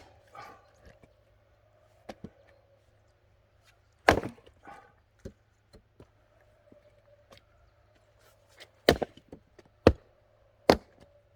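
Axe splitting short firewood rounds: sharp loud chops about four seconds in, then three more in quick succession near the end. Lighter knocks and clatter of split pieces fall between the chops.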